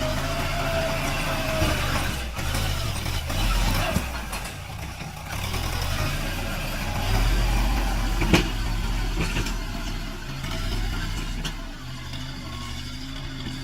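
Diesel tractor engine running under changing load, its note swelling and easing several times as it works through the mud, with a sharp knock about eight seconds in.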